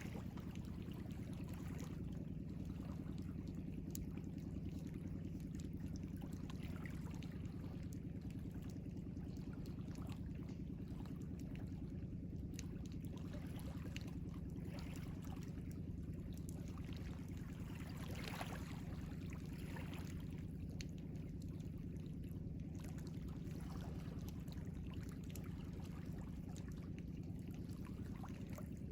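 Ocean waves: a steady low wash of water with scattered small splashes and trickles, and one louder splash about eighteen seconds in.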